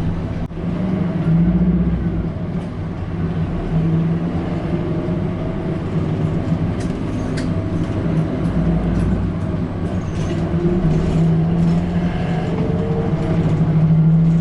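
City route bus driving, heard from inside the cabin: a steady engine hum that rises and falls a little with the throttle over low road rumble, with a sharp click about half a second in.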